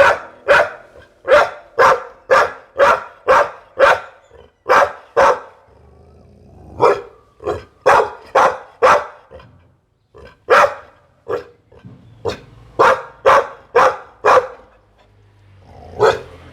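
Pit bull barking in quick runs of loud, sharp barks, about three a second, with short pauses between runs and a single last bark near the end.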